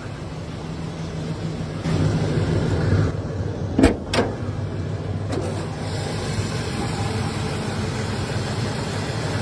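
A classic car's engine running steadily, a little louder for about a second around two seconds in. Two sharp knocks come close together about four seconds in.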